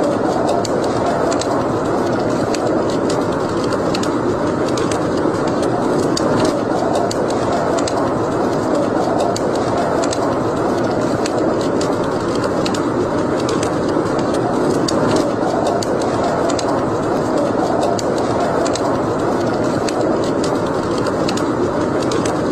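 Wood fire burning in a fireplace: a steady rushing noise with small sharp crackles scattered irregularly throughout.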